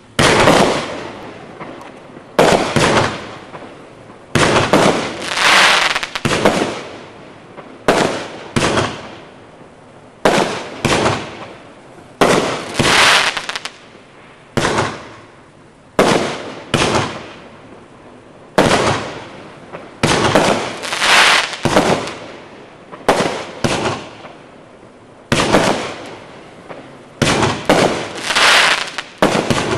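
Cosmos Boy 25-shot 500-gram fireworks cake firing: a long string of loud shots, mostly one to two seconds apart, some in quick pairs. Each bang fades out in a crackling tail.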